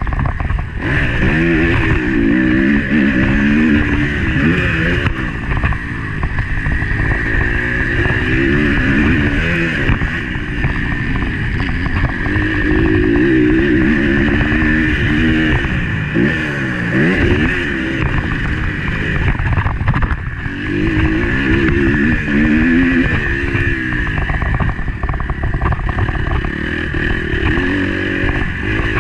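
Motocross bike engine heard on-board, revving up and falling back over and over as the rider accelerates and shifts through the gears, with wind noise on the microphone.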